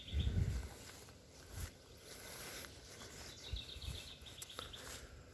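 A small bird singing a quick trill of rapidly repeated high notes, heard twice, faint against outdoor background noise. A brief low rumble sounds near the start.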